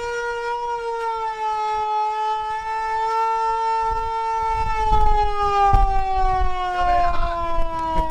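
Civil-defence style siren wailing at a steady pitch, then slowly winding down over the second half. A low rumble comes in underneath about halfway through.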